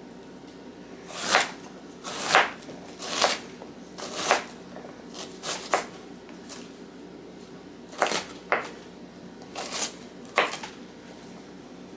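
Kitchen utensil work: about ten sharp knocks and scrapes at irregular intervals, roughly one a second, like a knife or spatula on a board or pan.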